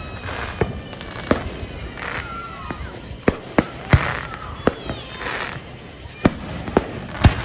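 Aerial fireworks going off in quick succession: about ten sharp bangs from bursting shells, some close together, with stretches of hissing crackle between them.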